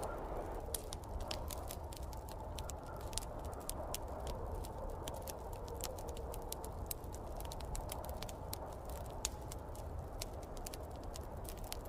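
Fireplace fire crackling, with many short sharp snaps and pops, over a steady low rumble and a swelling whoosh of snowstorm wind.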